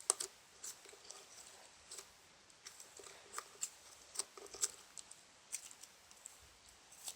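Butter slime being squished and stretched by hand, giving soft irregular clicks and crackles.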